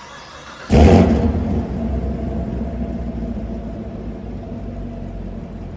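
Car engine and exhaust firing up: a brief whirr, then a sudden loud flare just under a second in, settling into a steady, deep idle rumble that slowly eases.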